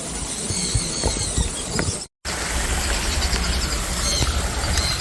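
Many small birds chirping and squeaking in an aviary: short high calls, repeated over and over, over a steady low rumble. The sound cuts out completely for a moment about two seconds in.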